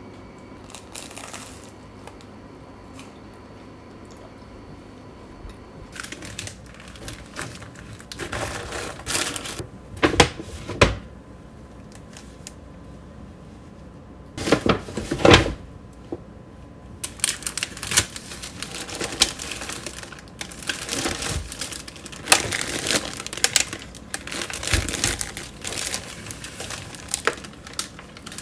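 Plastic bags or packaging crinkling in irregular bursts, with light knocks and clicks of items being handled and set down, starting about six seconds in after a quiet stretch.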